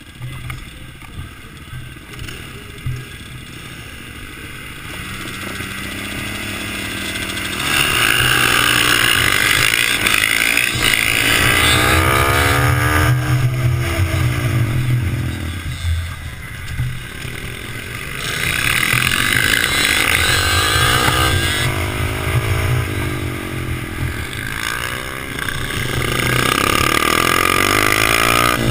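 Suzuki motorcycle engine running quietly for the first several seconds, then much louder from about eight seconds in as the bike is ridden, its level dipping and rising twice more.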